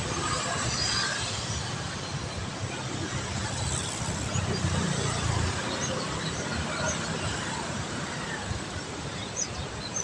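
Heavy rain falling steadily, an even hiss with a low rumble underneath that swells briefly midway.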